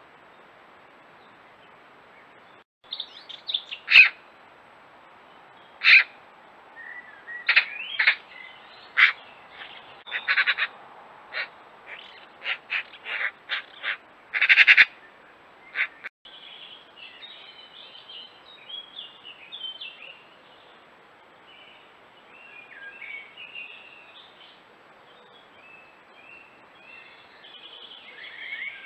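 Eurasian magpie calling: a run of loud, short, harsh calls, the loudest near the middle. After a break, softer twittering birdsong from small birds follows.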